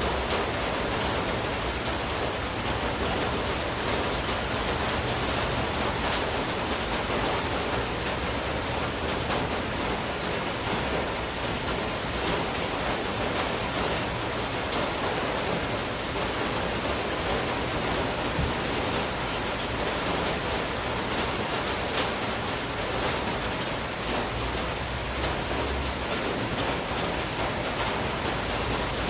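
Steady heavy monsoon rain falling, an even hiss of downpour with scattered faint drop ticks.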